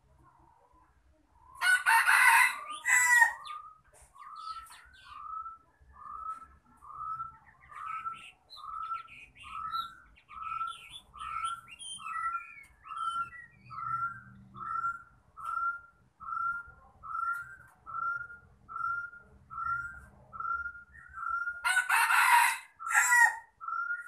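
A caged decoy bird calling a long, even series of short notes that rise and then fall, about three every two seconds. The series is broken twice, about two seconds in and again near the end, by a loud, harsh call lasting a second or so.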